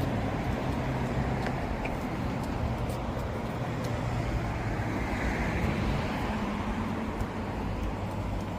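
Steady road traffic noise with a low engine hum, swelling briefly about five seconds in.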